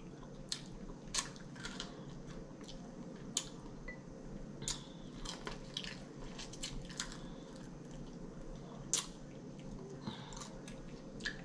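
A person eating air-fried chicken wings close to the microphone: scattered short, sharp mouth clicks and smacks of biting and chewing over a faint steady hum.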